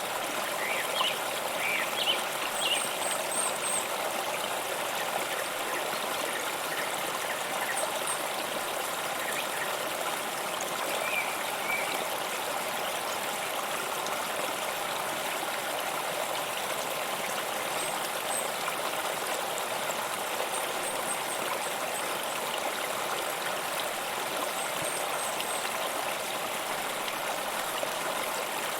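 A stream running and trickling steadily, with a few brief high chirps in the first few seconds.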